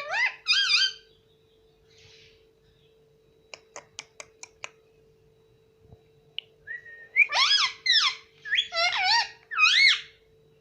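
Pet parrot whistling: a short run of rising-and-falling whistles at the start, a quick series of about six sharp clicks around four seconds in, then several bursts of warbling whistles in the last few seconds.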